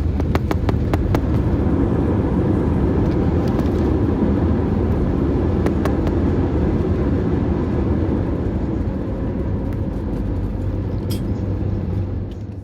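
Steady low rumble of an Airbus A320neo's cabin, with a few scattered clicks and knocks. It eases off slightly near the end and then cuts off suddenly.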